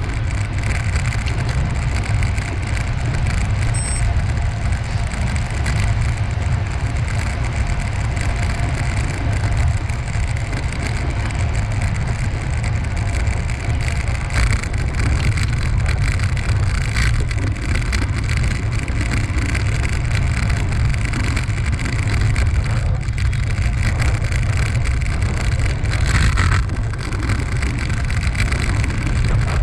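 Steady wind rumble buffeting the microphone, with rolling road noise, while riding along a path.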